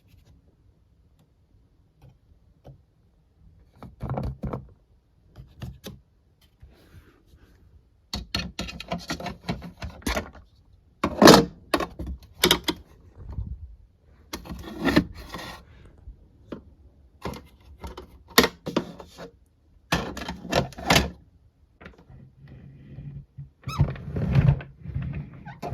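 Hard plastic toy pieces being handled and knocked together: scattered clicks and thunks at first, then a busier run of clattering from about eight seconds in.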